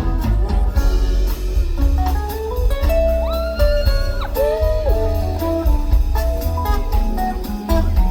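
Live band playing an instrumental break, with a guitar taking a melodic solo that bends its notes about three seconds in, over bass and drums.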